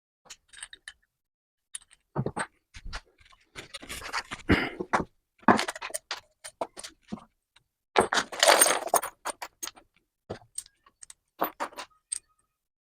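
Metal parts and tools being handled: scattered clinks, knocks and short scrapes, the loudest bursts about four and eight seconds in.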